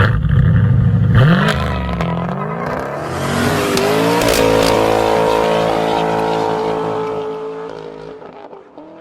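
A car engine revving hard: its pitch rises about a second in, climbs again near four seconds and holds a high steady note, then fades away near the end.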